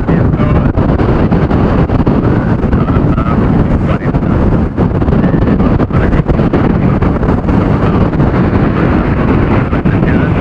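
Strong storm wind buffeting the microphone: a loud, continuous low rumble of gusts.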